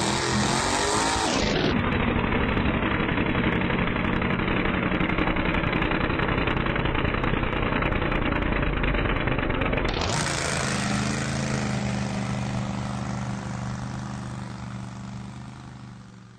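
Small engine running hard at high revs. The sound changes abruptly about a second and a half in and again about ten seconds in, then fades out over the last few seconds.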